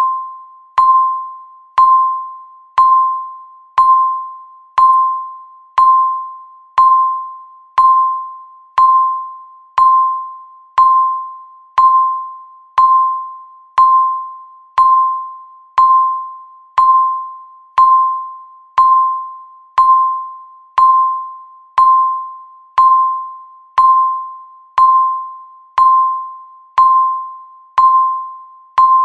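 Countdown timer ticking once a second: each tick is a sharp, bell-like ping that rings and fades before the next, evenly spaced and identical.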